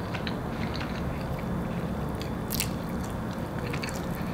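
Close-miked chewing and mouth sounds of a person eating buttered noodles, with small scattered clicks and one sharper click about halfway through.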